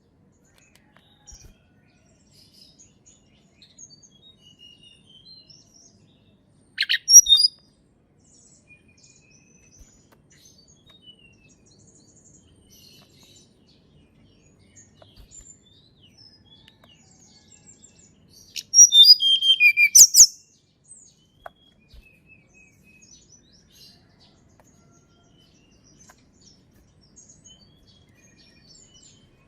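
Tledekan gunung songbird calling: faint high chirps and whistles throughout. A loud short phrase comes about 7 seconds in, and a louder run of quick notes falling in pitch comes around 19 to 20 seconds.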